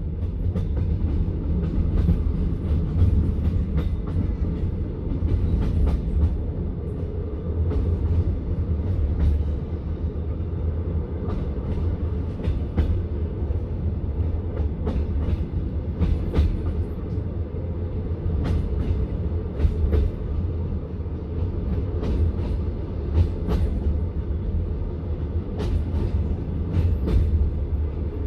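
Passenger train heard from inside a carriage while moving along the track: a steady low rumble with scattered clacks of the wheels over the rails.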